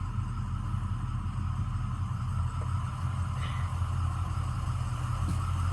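Ford E-450's 6.0-litre V8 diesel engine idling steadily, heard from inside the bus, with a steady air-conditioning blower hiss over it.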